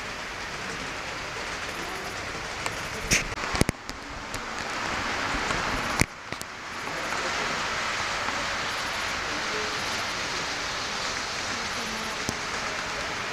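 Gauge 1 model trains running on the layout, a steady rolling noise of wheels on track. A few sharp clicks come about three seconds in and again about six seconds in.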